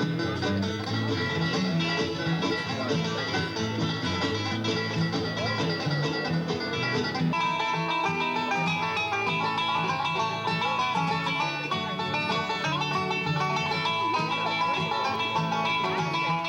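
Bluegrass string band playing a lively instrumental, banjo-led with guitar backing. The tune shifts to a new passage about seven seconds in.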